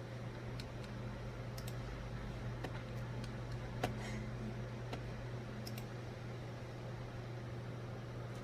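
Steady low hum of a running computer, with about ten short sharp clicks scattered through the first six seconds, the loudest a little before the middle.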